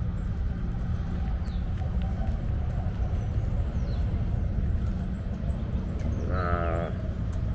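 A single short animal call, pitched and under a second long, comes about six seconds in, over a steady low outdoor rumble.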